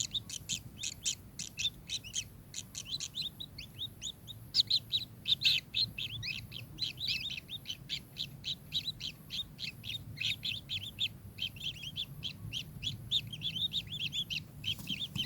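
Kingfisher calling in a rapid, continuous chatter of short sharp notes, several a second, with a brief thinner patch about four seconds in.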